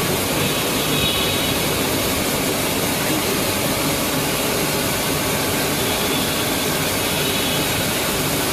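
Mazak Integrex CNC lathe running during a zero return: a steady, loud mechanical rushing noise, with a faint high whine about a second in and again around six seconds in as the axes travel home.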